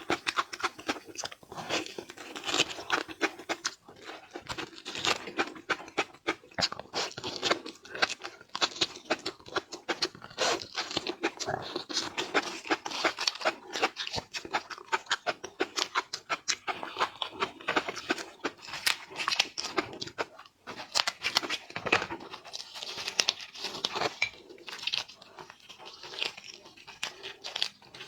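Close-miked, dense crackling and tearing of a small spiny lobster's shell being broken open and peeled, mixed with wet chewing of the meat.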